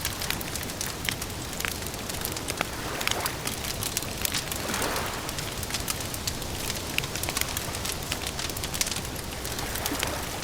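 Campfire crackling: many sharp, irregular pops and snaps over a steady hiss, with a brief swell of noise about five seconds in.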